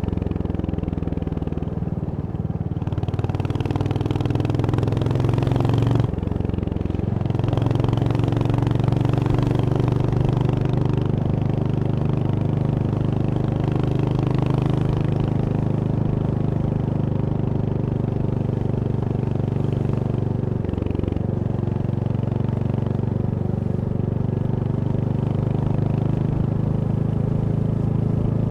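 Royal Enfield Hunter 350's single-cylinder engine running steadily as the motorcycle is ridden. The engine note breaks and shifts briefly about six seconds in and again past twenty seconds.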